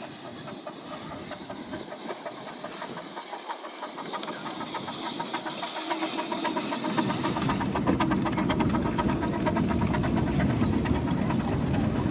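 Miniature railway steam locomotive venting a loud steady hiss of steam that cuts off suddenly about two-thirds of the way through. A low rumble of the train running, with a fast even beat, grows louder toward the end.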